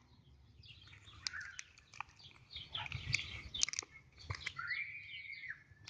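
Small wood campfire crackling, with scattered sharp pops as it catches. Birds chirp in the background, with one longer call that rises and falls near the end.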